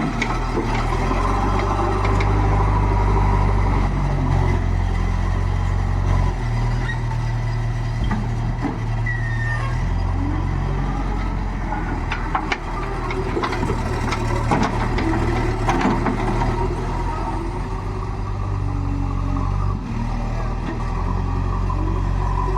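JCB 3DX backhoe loader's diesel engine running under working load, its revs stepping up and down several times, with scattered knocks in the middle.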